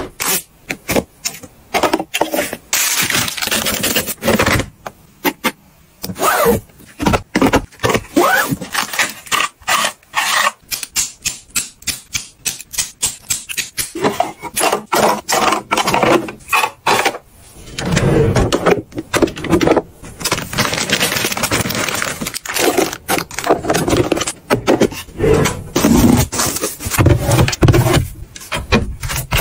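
Packets of freeze-dried food and storage containers being handled and stacked: a dense run of quick clicks, taps, rattles and rustling scrapes, with heavier knocks and thuds in the second half.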